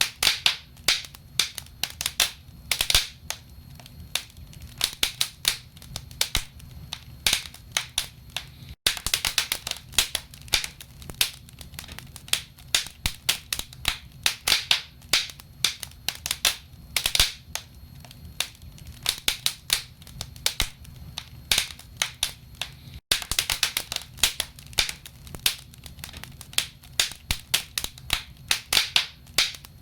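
Wood fire burning in a fireplace: logs crackling with dense, irregular sharp pops and snaps over a faint low rumble.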